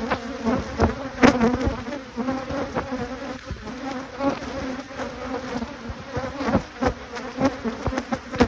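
Honeybees buzzing in a steady hum over an opened hive, with scattered short knocks and bumps through it.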